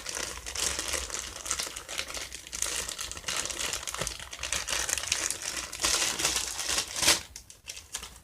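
Bag crinkling and rustling continuously as it is opened and handled, loudest about seven seconds in, then it stops.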